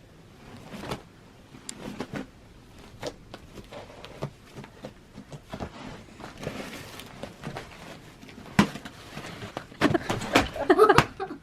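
Fluffy slime being poked and squished by hand, giving a scatter of soft, irregular clicks and small pops. About ten seconds in, a short burst of voice cuts in.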